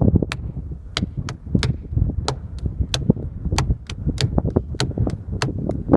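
Hands drumming on boulders, sharp knocking strikes in a loose rhythm about two to three a second, over low wind rumble on the microphone.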